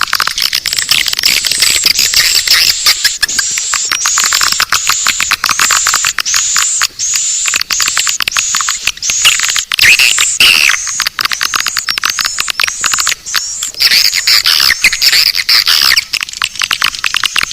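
Swiftlet calling track for luring swiftlets into a nest house: dense high-pitched swiftlet twittering and rapid clicking, with a run of repeated arched chirps at about one and a half a second through most of the stretch. The recording holds no low sounds at all.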